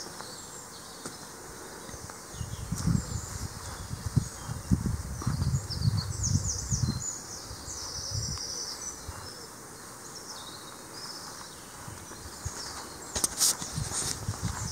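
Small garden birds singing, with repeated high chirps and trills throughout. Low rumbling on the microphone runs from about two to seven seconds in, and a few sharp clicks come near the end.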